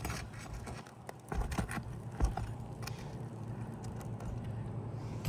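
A few sharp knocks and clicks from a hammer and roofing snake working roofing nails out from under unsealed asphalt shingles, the loudest knock a little over two seconds in.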